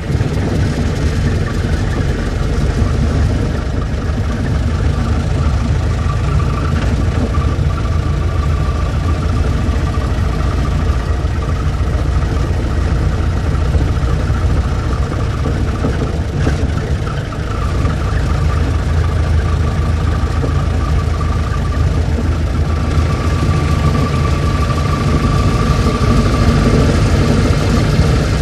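Old car engine running steadily at idle, with a faint high whine that comes and goes.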